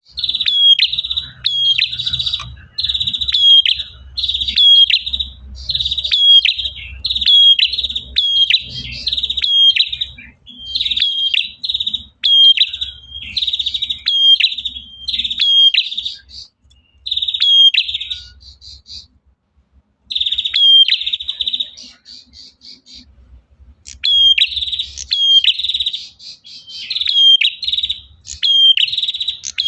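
Male prinia (prenjak) singing to call a female: a loud, high-pitched, chattering trill, repeated in short phrases about once a second. There are a few brief pauses about halfway through.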